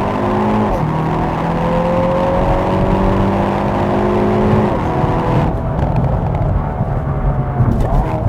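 2021 Hyundai Veloster N's turbocharged 2.0-litre four-cylinder under hard acceleration on a launch-control run, its pitch climbing steadily through the gears. The dual-clutch gearbox makes quick upshifts about a second in and again about five seconds in, and the engine eases off near the end.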